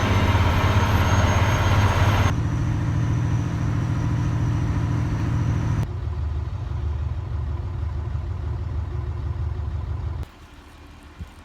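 Semi truck's diesel engine running steadily with a low hum. The sound changes abruptly twice, then about ten seconds in drops to a much quieter rumble with a few light knocks.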